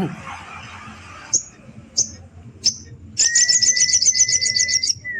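A sogon sunbird singing: three short, sharp high chirps, then a rapid high-pitched trill for nearly two seconds over a steady lower whistle. This is a challenging call meant to provoke a rival.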